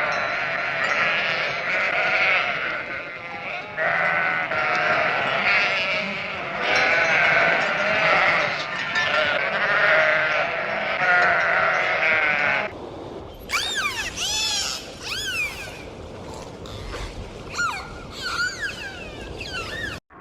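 Animal calls. About twelve seconds of loud wavering calls, then after a short break a run of quick high chirps that rise and fall.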